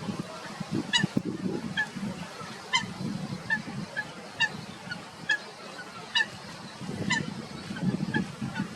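Waterbird calls: a series of short, nasal, slightly falling notes repeated roughly once a second, over a low, uneven rumble.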